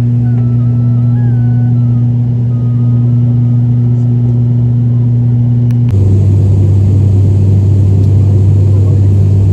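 Steady loud drone of a turboprop airliner's engines and propellers heard inside the cabin, a strong low hum. About six seconds in it changes abruptly to a slightly lower drone with more rushing noise.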